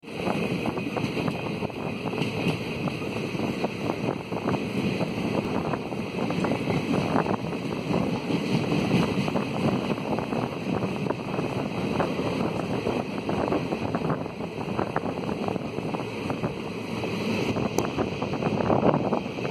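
Passenger train running at speed, heard from one of its own coaches: a steady rumble of steel wheels on the rails mixed with air rushing past and wind on the microphone.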